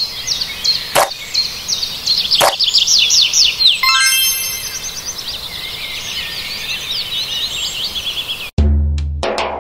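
Birdsong: many small birds chirping in rapid short calls, with two sharp clicks about one and two and a half seconds in and a brief ringing tone about four seconds in. Near the end the birdsong cuts off suddenly into drum-led music.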